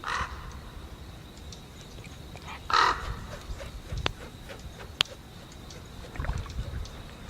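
A bird's harsh squawks: two short calls, the louder one a little under three seconds in, with two sharp clicks later and a faint steady high tone underneath.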